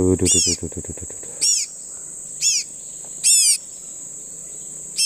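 A small bird giving sharp, downward-slurred calls, one about every second, over a steady high insect drone. A brief low buzzy sound comes at the very start.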